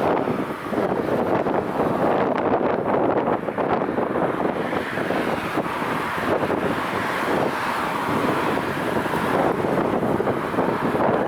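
Strong wind buffeting the microphone: a continuous, gusting rush.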